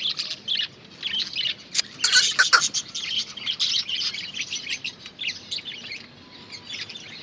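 Budgerigars chirping and chattering continuously, many overlapping high calls, with a cluster of louder calls about two seconds in.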